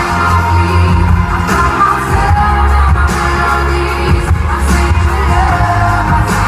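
Live pop music at a concert: singing over a full band with heavy bass, loud and continuous.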